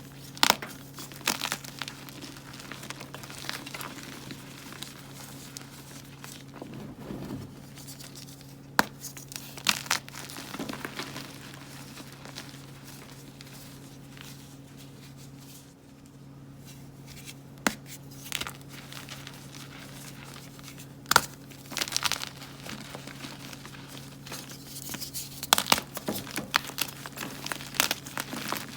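Gym chalk blocks being crushed and crumbled by hand: a soft, crunchy crumbling with sharp snaps now and then as pieces break.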